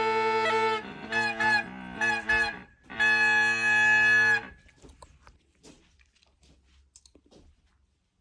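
Bagpipe music, a melody over a steady drone, that stops about four and a half seconds in; after it only faint scattered clicks.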